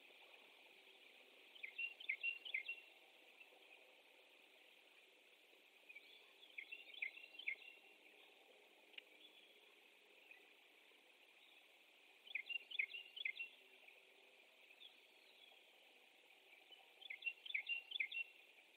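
Faint bird song: a short burst of quick high notes, repeated about every five seconds, four times in all, over a steady high hiss.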